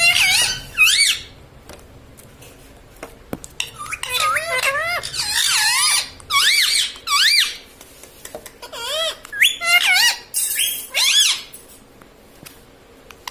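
Pet ring-necked parakeet calling in shrill squeaks and squawks that sweep quickly up and down in pitch. The calls come in three bursts: at the start, from about four to seven seconds in, and from about nine to eleven seconds in.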